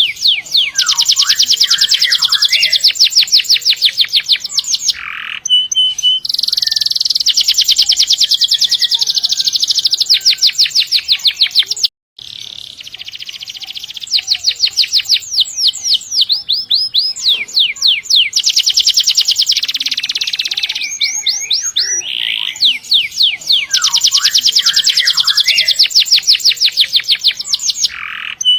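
Canary singing long, rapid rolling trills of evenly repeated high notes, in long phrases with short pauses between them. The song cuts out briefly about twelve seconds in.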